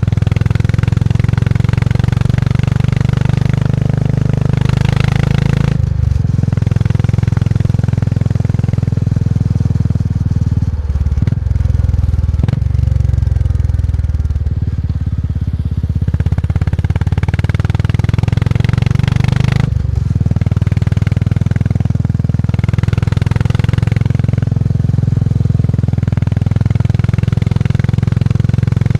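Motorcycle engine running steadily under way with a low, thumping note. Its pitch and level dip briefly a few times, about 6, 11, 12 and 20 seconds in.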